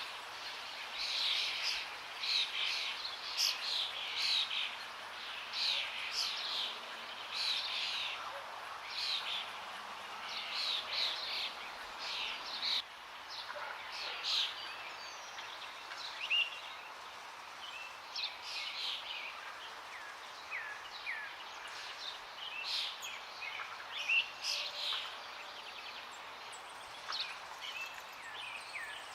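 Several small songbirds chirping and trilling busily over a steady rush of flowing water.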